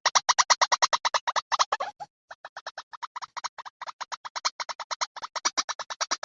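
White-breasted waterhen (ruwak-ruwak) lure call: a rapid, even series of short harsh notes, about ten a second, with a brief break about two seconds in.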